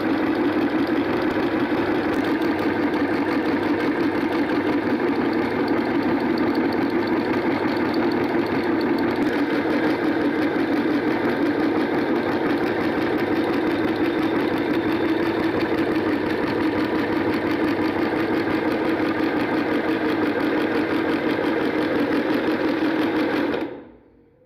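Electric meat grinder running steadily with a strong motor hum, grinding ice cream Rio biscuits. The motor cuts off suddenly near the end.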